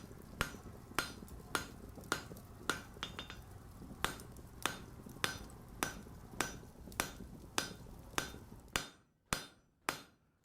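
Blacksmith's hammer striking on an anvil at a steady pace, a little under two blows a second, each with a short metallic ring, and a few light quick taps about three seconds in. A low background hum stops near the end while the blows continue.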